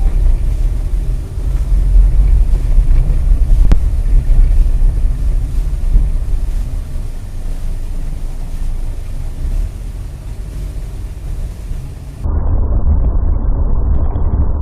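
Dash-cam recording of a vehicle under way: a steady low rumble of engine and road noise. About twelve seconds in it cuts to another recording with a louder, duller rumble.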